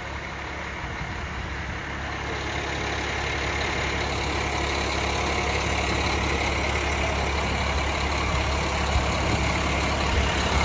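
Large truck engine idling with a steady low hum, growing louder over the first few seconds, then holding steady.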